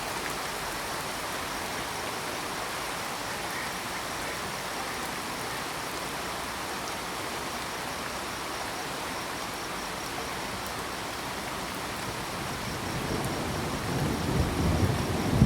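Steady rain with crickets chirping in an even, fast pulse high above it. Near the end a low rumble of thunder swells up.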